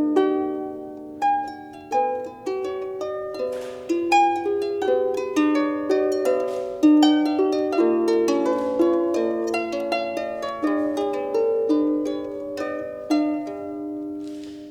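Solo harp playing an instrumental introduction: plucked notes ringing on and overlapping in a flowing melody, dying away near the end.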